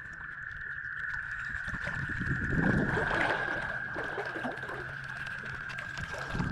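Creek water splashing and sloshing, swelling to its loudest in the middle and easing off, over a steady high-pitched drone.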